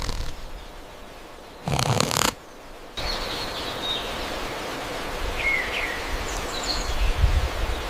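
A brief rustle, then over steady outdoor background noise a few short, high chirps come in scattered calls through the second half, with a low rumble near the end.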